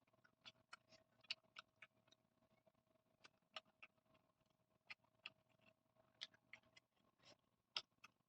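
Close-miked chewing and mouth sounds: irregular wet clicks and smacks, several a second.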